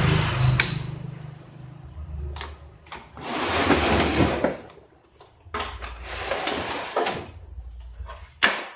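A television's casing being handled and taken apart: irregular scraping, rattling and knocks, with sharp clicks and a short loud knock near the end.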